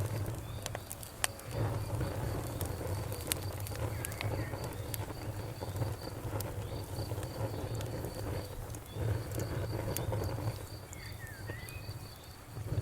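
Wood fire crackling, with irregular sharp pops over a steady low rumble of burning. An insect chirps steadily in the background in a rapid, even pulse.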